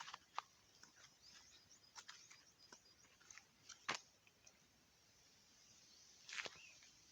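Near silence: faint scattered clicks and light rustles, with one sharper click about four seconds in and a short rustle near the end.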